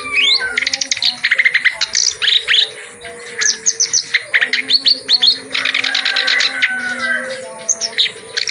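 Reed warbler (kerak basi) singing a loud, continuous, fast chattering song of rapid trills and quick rising and falling whistled notes.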